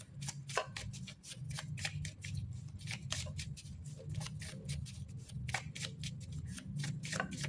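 A deck of word cards being shuffled by hand: a quick, uneven run of light card flicks and snaps.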